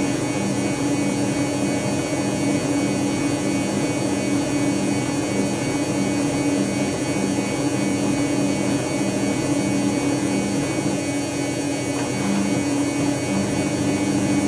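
Dyson Contrarotator CR01 washing machine running late in its cycle: a steady motor hum with a lower tone that pulses about twice a second, then holds steady near the end.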